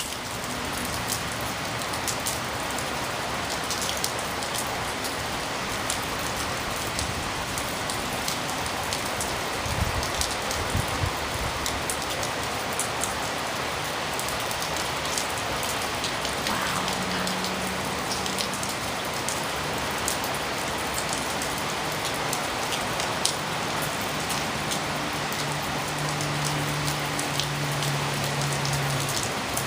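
Heavy rain falling steadily, with many individual drops spattering close by, over the constant roar of freeway traffic.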